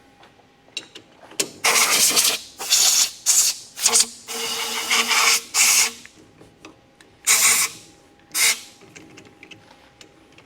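Compressed-air blow gun blowing chips and dust off lathe chuck jaws: a series of short blasts of hissing air, with one longer, softer blast about four seconds in that carries a faint whistle.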